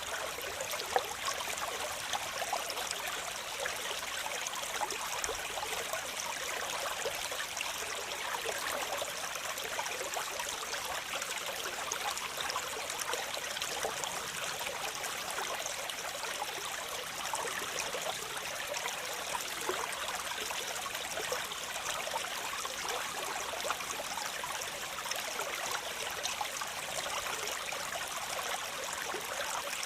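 Waterfall water splashing in a steady, unbroken rush, bright and hissy with little low rumble.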